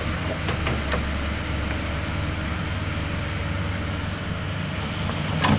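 Excavator's diesel engine running steadily, with a few short cracks early on and a louder knock near the end.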